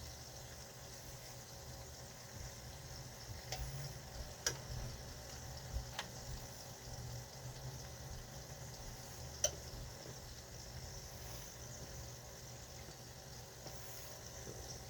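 Faint bubbling and sizzling of food cooking on the stove, with four short sharp clicks spread through it.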